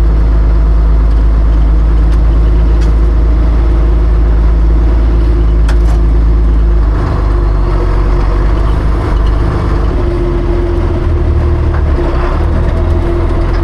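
Tractor diesel engine running steadily, with its low note shifting about halfway through.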